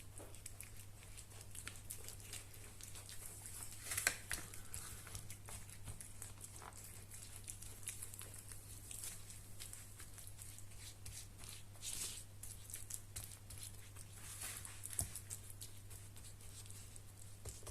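A spatula pressing and scraping fridge-cake mixture down into a cling-film-lined bread tin: faint scraping and crinkling of the film, with a few soft knocks about 4, 12 and 15 seconds in. A steady low electrical hum runs underneath.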